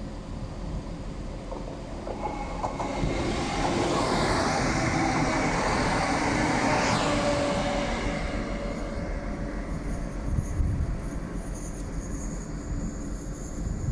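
Northern Class 170 Turbostar diesel multiple unit passing close by. It swells in from about two seconds in, is loudest for a few seconds in the middle, then fades as it runs away.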